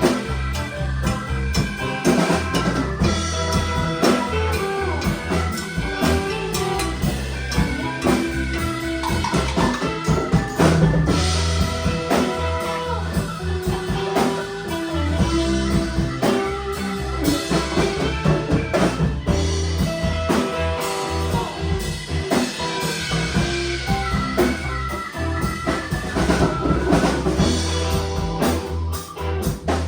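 A band playing an instrumental passage: a drum kit keeping a steady beat under bass and chordal instruments, with no singing.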